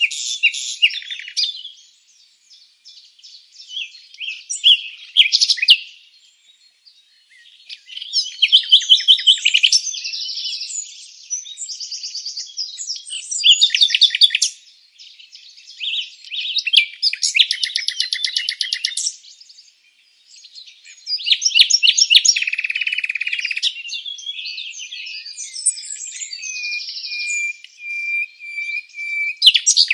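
Songbirds singing and chirping: a run of varied high phrases with short pauses between them, many of them fast trills.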